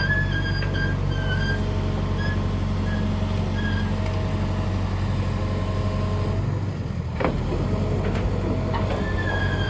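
Sany SY135C excavator's diesel engine running steadily, with short high-pitched squeaks coming and going over it. About two-thirds of the way in the engine note shifts and a few sharp knocks follow.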